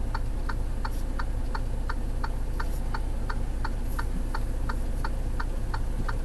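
Flasher relay clicking evenly about three times a second, typical of hazard lights switched on, over the low steady drone of an idling truck engine.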